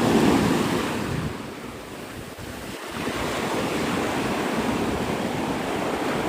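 Waves breaking and washing up on the beach, mixed with wind rushing over the microphone: a steady rush of noise that eases for a moment about two seconds in, then picks back up.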